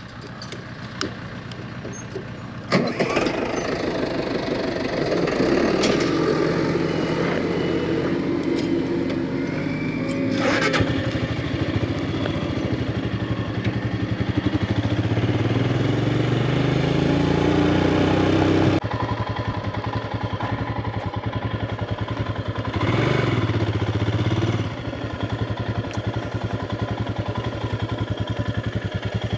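Motorcycle engine starting about three seconds in, then running as the bike pulls away, its pitch rising as it accelerates. The sound changes abruptly about two-thirds of the way through, and the engine then runs at a steadier pitch.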